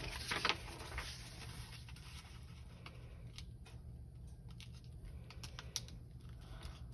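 A sheet of letter-size paper being folded and creased by hand: soft rustling at first, then faint scattered crisp ticks as the folds are pressed down.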